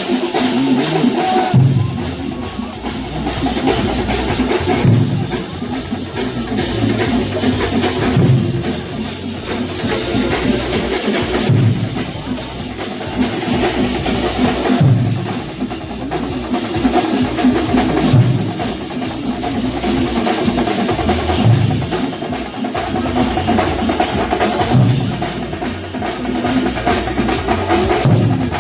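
Festival percussion ensemble drumming steadily and densely, with a heavy low beat coming round about every three seconds.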